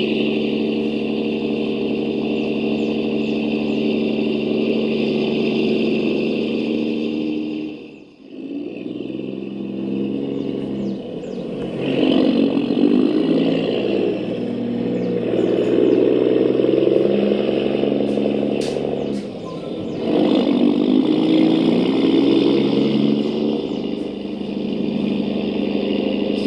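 Radio-controlled model trucks driving, with a steady engine-like hum and a high motor whine. The sound dips briefly about eight seconds in, then rises and falls in pitch and loudness with the throttle.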